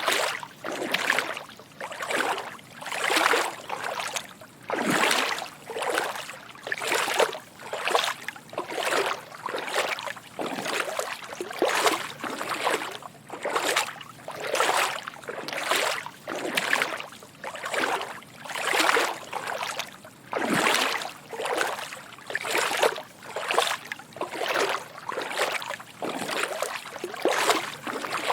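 Footsteps wading through shallow water: soft sloshing splashes at a steady walking pace.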